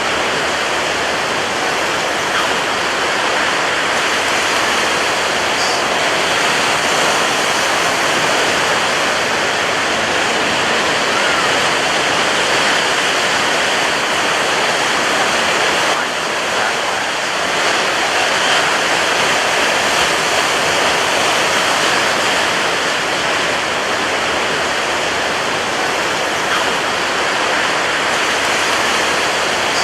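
Ocean surf breaking on a beach, a dense, steady wash of water with no separate crashes standing out.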